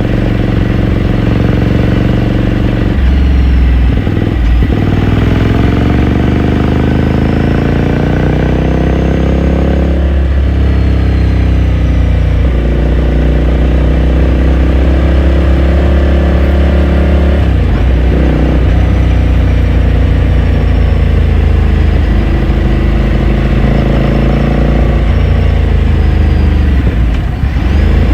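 Ducati Scrambler Sixty2's 399 cc air-cooled V-twin engine and exhaust heard from onboard while riding, the revs rising and falling with several gear changes.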